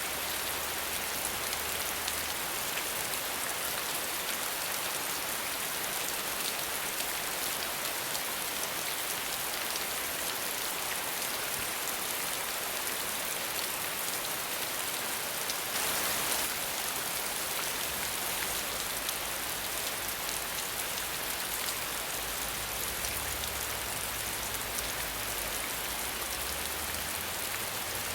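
Steady rain falling, a dense even patter, swelling briefly louder about halfway through.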